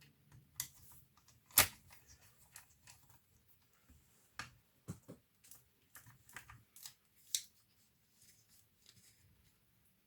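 Irregular small clicks and taps of laptop parts being handled, with one sharp click about a second and a half in and another a little past the middle.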